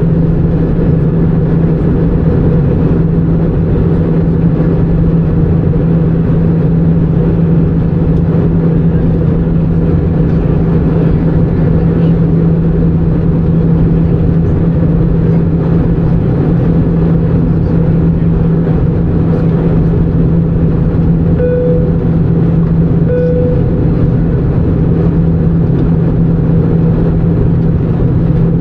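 Steady in-flight cabin drone of an Airbus A319: engine and airflow noise with a constant low hum. Two short beeps sound about a second and a half apart near the end.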